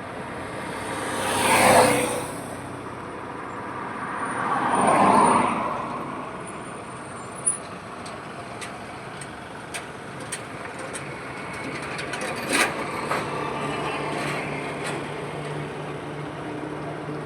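Highway traffic: two vehicles pass close by, the first about two seconds in and the second about five seconds in, each rising and fading. Scattered sharp knocks and clatter follow, and a steady low engine hum sets in about two thirds of the way through.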